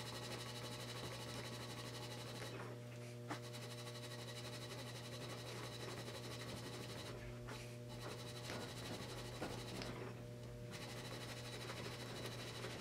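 Faint scratchy rubbing of a rubber grommet being spun around a differential shaft with a string, cleaning up rust pitting on the shaft's seal surface; the rubbing stops briefly three times. A steady low hum runs underneath.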